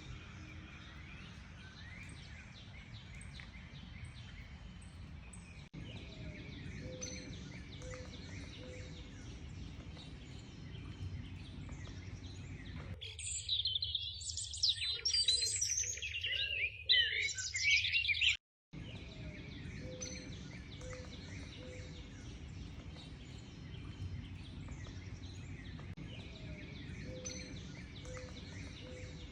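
Chorus of many songbirds chirping and singing over a low steady background rumble. From about 13 to 18 seconds a louder, denser stretch of close birdsong comes in and cuts off abruptly.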